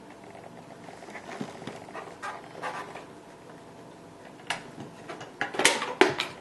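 Plastic clicks, knocks and rustling as the detached dirt cup of a Hoover Impulse cordless stick vacuum is handled and opened. There are a few soft rustles early, then a quick run of sharp clicks near the end.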